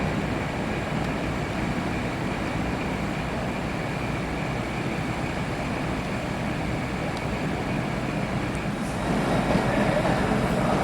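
A train running at a large station platform, a steady noise that grows louder near the end.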